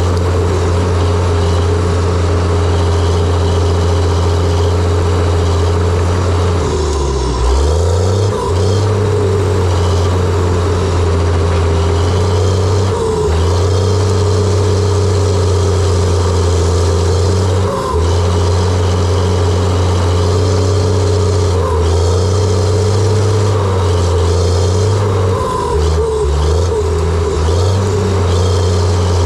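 John Deere 700J-II crawler dozer's diesel engine running steadily under load. It sags briefly in pitch every few seconds, most deeply about seven seconds in.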